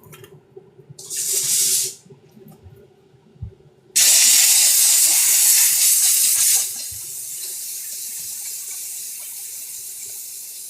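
Water running from a tap into a sink, rinsing sneaker soles. A short burst comes about a second in. About four seconds in the water comes on hard, then drops to a quieter steady flow after about two and a half seconds.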